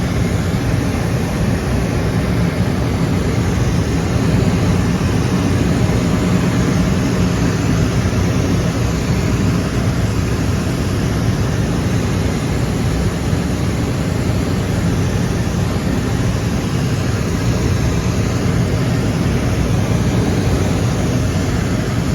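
Steady cabin noise of an aeroplane in flight, heard from inside the cabin: an unbroken rush of engines and airflow, heaviest in the low end.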